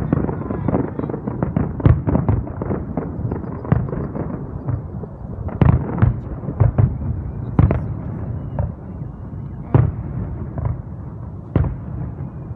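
Aerial fireworks display: a dense run of bangs from bursting shells that thins to single loud booms every second or two.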